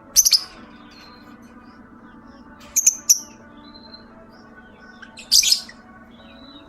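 Lovebird giving sharp, shrill calls in three short loud bursts, the middle burst a quick double.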